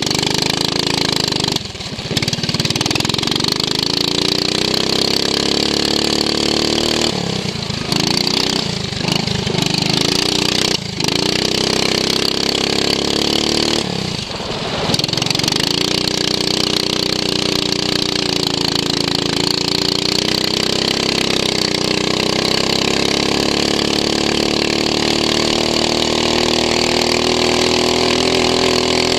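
Racing lawn mower's engine heard onboard, revving up and easing off, with short drops in pitch and level about 2, 7 to 9, 11 and 14 seconds in as the throttle is lifted. It then pulls steadily, its pitch slowly rising through the last part.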